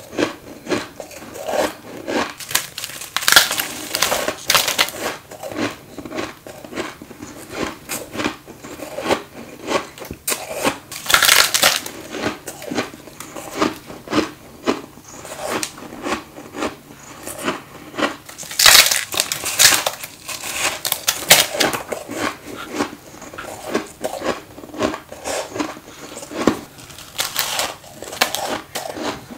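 Freezer frost being bitten and chewed close to the microphone: a steady run of crunching, crackling bites, with louder clusters of bites every several seconds.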